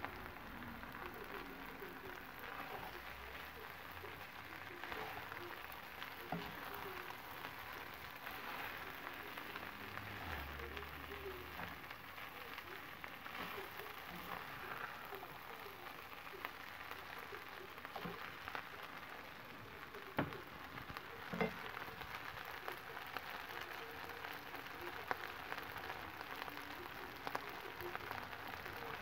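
Fried rice sizzling in a cast iron skillet, a steady hiss and crackle, with a couple of sharp clicks about two-thirds of the way in.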